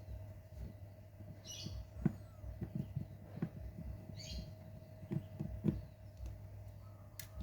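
Scattered small clicks and taps from the handling of phone parts and tools during disassembly, over a steady electrical hum. Two short high chirps sound in the background about 1.7 and 4.3 seconds in.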